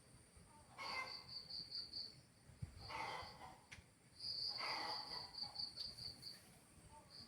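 Cricket chirping in pulsed high trills, about six pulses a second, in bursts of one to two seconds with short gaps. Three brief, noisy sounds lower in pitch come and go among the trills.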